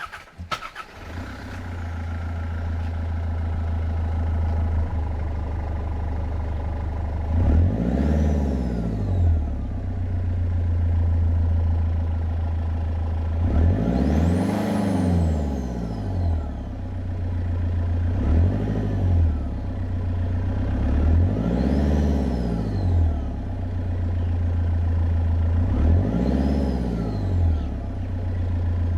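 Nissan Navara D22's YD25 2.5-litre four-cylinder turbo-diesel starting about a second in, then idling and being revved about five times. A turbo whistle rises and falls with each rev.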